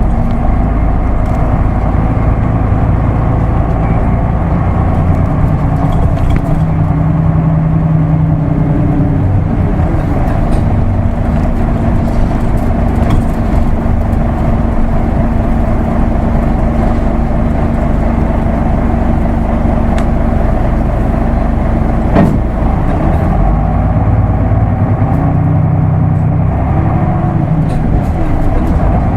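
Isuzu Erga Mio manual-transmission bus under way, its engine note rising and falling as it pulls through the gears. It holds a steady cruising note for about twelve seconds in the middle, and there is a single sharp click about twenty-two seconds in.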